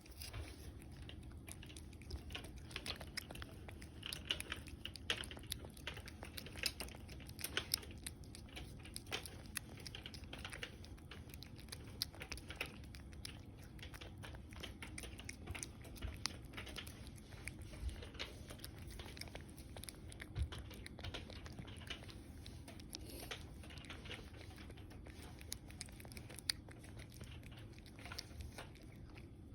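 A cat licking and smacking at a Churu lickable paste treat: a steady run of small, irregular mouth clicks, several a second.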